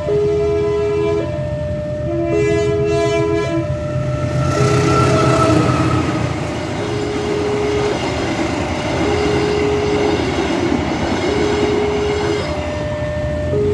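Level-crossing alarm alternating between a low and a high tone about once a second throughout. A train horn blows briefly a few seconds in, then a passenger train runs past over the crossing, the noise of its wheels on the rails taking over.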